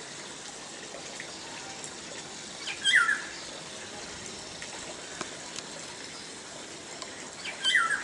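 A bird calls twice, about three seconds in and again near the end, each a short loud call that bends down in pitch, over a steady background hiss.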